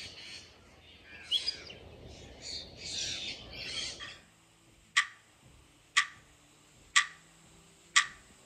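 Birds chirping and calling for about four seconds, then four sharp clock ticks one second apart, louder than the birdsong.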